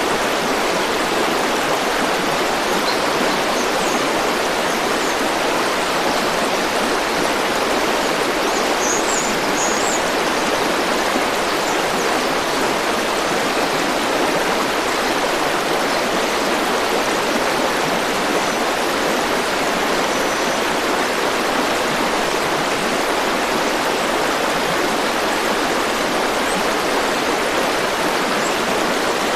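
River water flowing and rushing steadily over stones, with a few faint high chirps about nine seconds in.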